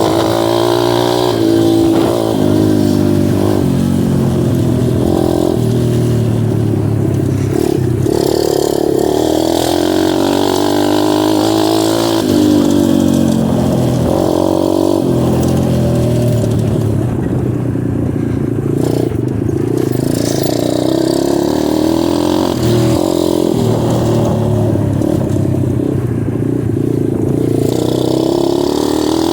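Dirt bike engine under way on a trail, its pitch repeatedly climbing and dropping as the throttle opens and closes.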